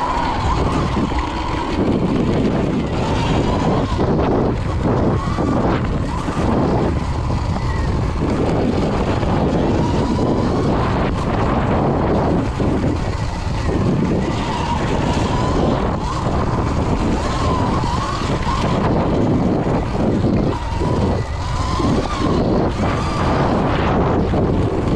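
Electric dirt bike ridden along a trail: the motor's whine wavers up and down with the throttle, over a steady rush of wind and tyre noise and frequent short knocks from the bike going over bumps.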